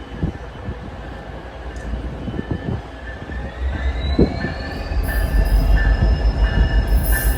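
Amtrak passenger train led by a Siemens Charger diesel locomotive pulling into a station: a rumble that grows much louder about five seconds in as the train draws close, with a faint rising whine beneath it.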